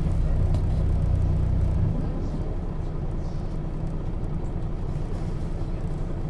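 Engine of a 1996 Setra S 315 UL bus running with a strong low drone under load, easing off to a quieter steady run about two seconds in.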